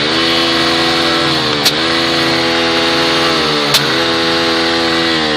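Yamaha Fazer (version 1) motorcycle engine running at raised revs, its pitch dipping twice, each dip with a sharp pop: the engine is misfiring.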